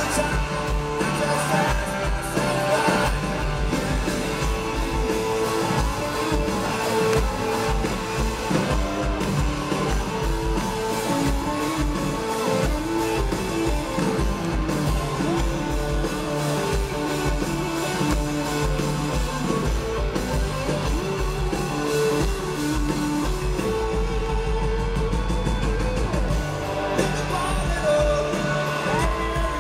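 A live rock band playing a song, with singing over guitars and drums.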